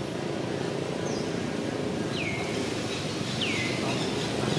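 A bird calling a short downward-sliding whistle three times, about a second apart, over steady low outdoor background noise.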